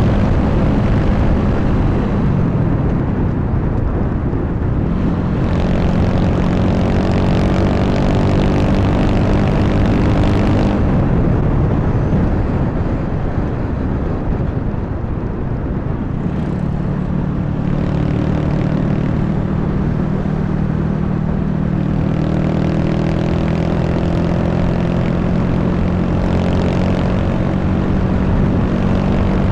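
Honda Wave 125 motorcycle's single-cylinder four-stroke engine running on the road, with strong wind on the microphone. The engine note falls away twice in the first half and holds steady in the second half.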